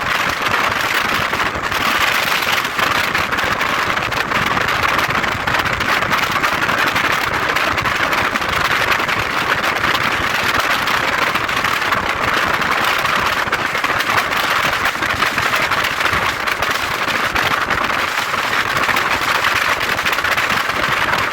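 Steady, loud rushing noise with a fine crackle throughout: wind and road noise on the microphone of a camera riding along on a motorcycle.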